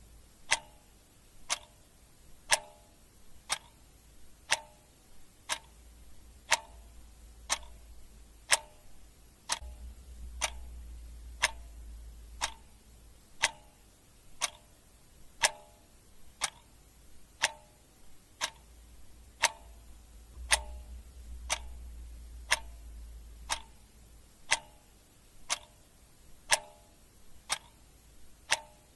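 Clock ticking in a steady, even rhythm, each tick a sharp short click. A faint low rumble sits underneath at times.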